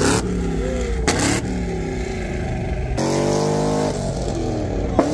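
Car engines running and revving as cars cruise along the street, the pitch rising and falling, with a steadier held note about three seconds in. Brief knocks come at the start, about a second in, and near the end.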